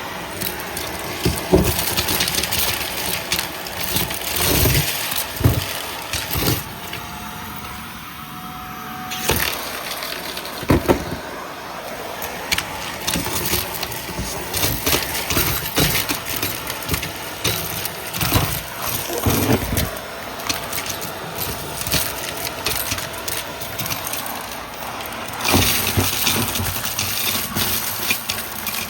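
Vacuum cleaner running over a dry mess, with a steady motor tone under dense crackling and rattling as debris is sucked up and knocks through the machine.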